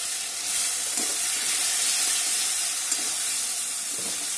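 Onion, tomato and spice masala sizzling in hot oil in a metal kadai, stirred with a metal spatula, with a couple of soft scrapes about a second in and near the end. This is the stage where the masala is being fried down before the fish goes in.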